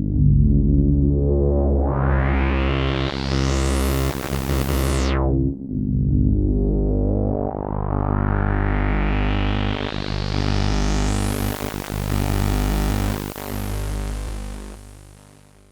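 Sequential Prophet 10 rev 4 analog polyphonic synthesizer playing sustained chords, dry with no effects, its filter sweeping open to a bright buzz and closing again twice. The second, slower sweep dies away in a fade-out near the end.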